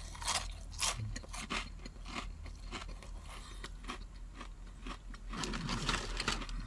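A person chewing crispy fried food close to the microphone, with many small crunches. A rustle of paper wrapping comes near the end as he reaches into the food box.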